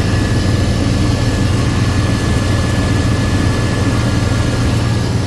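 Car engine idling steadily with the A/C on during low-side R134a refrigerant charging, with a thin steady high whine over the engine note.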